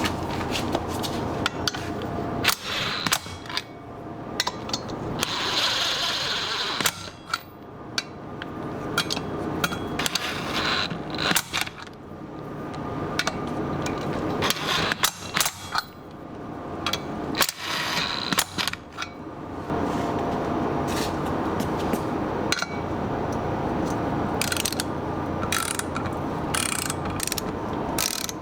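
Mechanical work with hand tools: repeated ratchet-like clicking and metal clinks, irregular throughout, with a few short hissing stretches.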